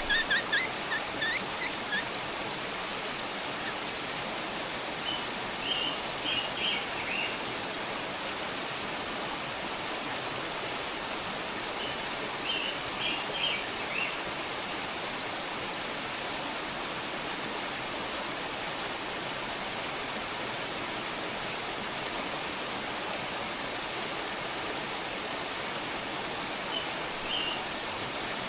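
Steady rushing hiss with a few short bursts of high-pitched chirping from small birds, the chirps coming in clusters about every few seconds and thickest at the very start.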